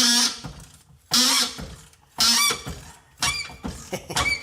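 A rusty exhaust bolt squealing as it is turned with a wrench, four loud squeals about a second apart, one with each stroke. The squeal comes from a dry, seized thread; the owner calls it noisy.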